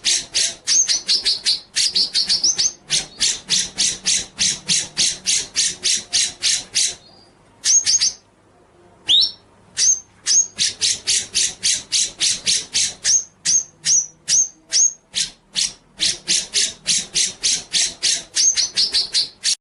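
Songbird song from a bird-song training recording: a rapid run of sharp chipping notes, about four a second, with short rising whistles mixed in. It breaks off briefly twice, a little past the middle.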